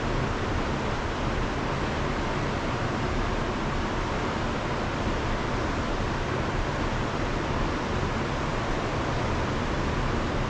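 Steady, unbroken rush of a river in heavy flood.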